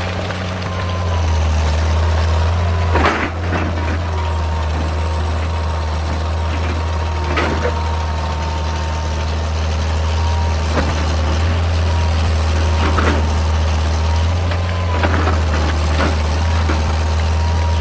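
Excavator's diesel engine running steadily with a low drone and a thin high whine, broken by short sharp knocks every few seconds.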